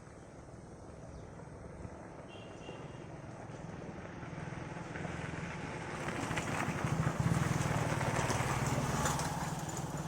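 A vehicle passing by, growing louder over the first seven seconds or so and easing off near the end.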